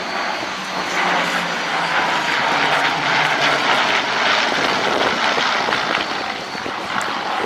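Fixed-wing aircraft flying past with its engine running loud and steady, the noise swelling about a second in and holding.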